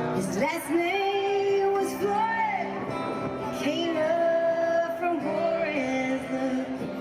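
Live country band playing with a woman's lead vocal singing long held notes that bend and slide in pitch, heard through a crowd recording.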